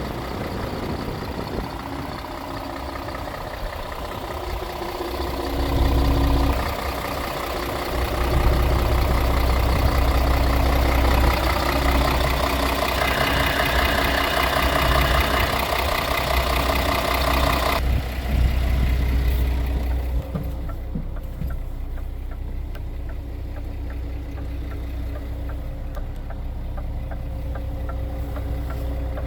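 Scania R450's diesel truck engine idling steadily, with no revving. About two-thirds of the way through, the higher sounds drop away suddenly and the idle goes on duller.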